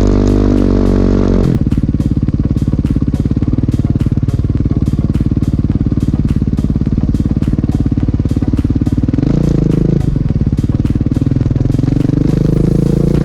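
Dirt bike engine running at low revs, pulling up a trail climb, with its pitch rising briefly about nine seconds in and again near the end.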